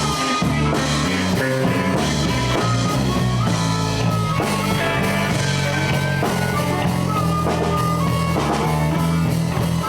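Live blues band playing an instrumental passage: electric guitar lines over a steady bass riff and drum kit.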